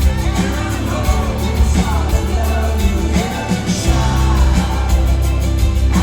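Rock band playing live with a singer, the bass and drums heavy and continuous under the vocal, with some crowd voices in the mix.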